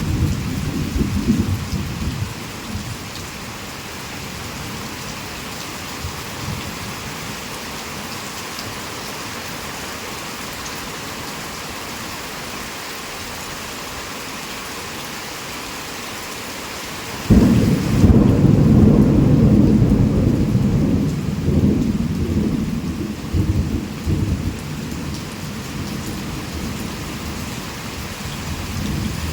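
Heavy rain falling steadily, with thunder rumbling away over the first few seconds. About seventeen seconds in, a sudden loud thunderclap breaks and rolls on for several seconds before dying back under the rain.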